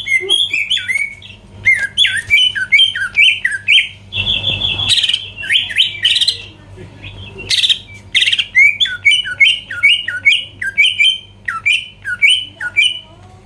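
Greater green leafbird (cucak ijo) singing loudly: a fast run of sweeping chirps, about three or four a second, broken by harsher squawky bursts about four and seven and a half seconds in.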